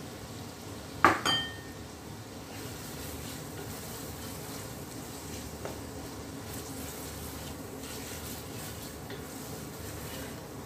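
Sliced tomatoes going into a stainless steel pot of onions frying in ghee, with one sharp clank and a brief metallic ring on the pot about a second in. After that comes steady sizzling while a wooden spatula stirs and scrapes the pot.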